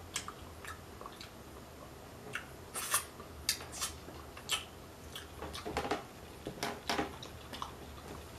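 Close-up sounds of a person eating tacos: irregular chewing, mouth clicks and smacks, with a few longer crunchy bites.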